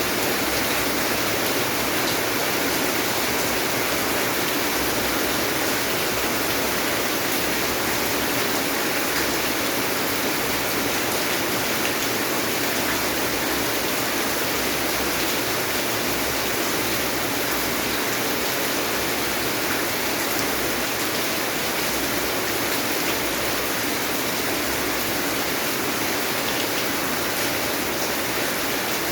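Steady, unbroken rain falling, a constant even hiss of water.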